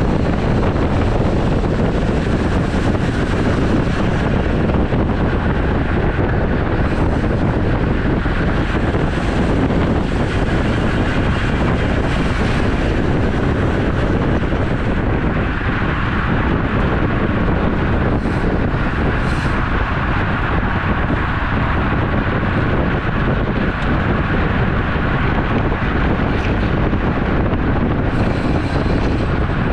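Wind rushing over the microphone of a camera on a moving road bike, a steady loud noise heavy in the low end.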